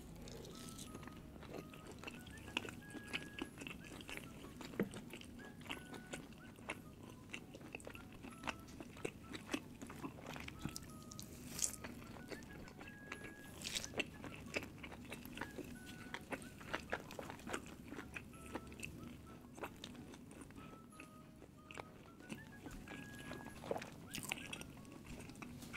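Close-miked eating sounds: chewing and biting into cheese naan with extra mozzarella, with many small mouth clicks. Faint background music of short repeated notes plays underneath.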